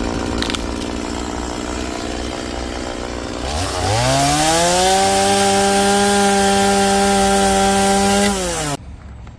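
Chainsaw running at low speed, then revved up to full throttle about three and a half seconds in and held high for about five seconds while cutting into a Western red cedar log. The engine note drops away suddenly near the end.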